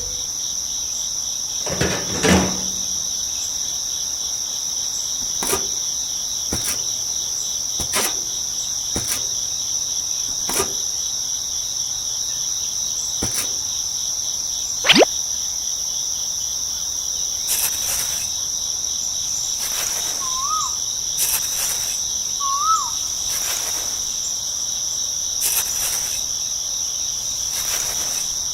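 Steady high-pitched insect chorus, with sharp clicks and taps scattered every second or few.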